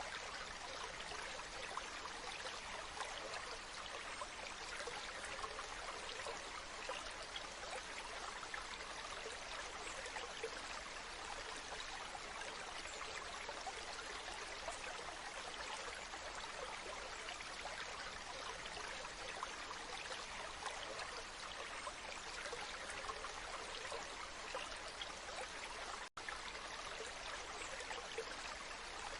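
Waterfall: water rushing and splashing in a steady, even wash, with a momentary dropout near the end.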